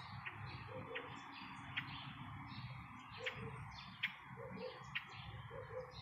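Birds chirping: short, high chirps repeat about once a second, with a lower two-part note recurring between them over a steady background hiss.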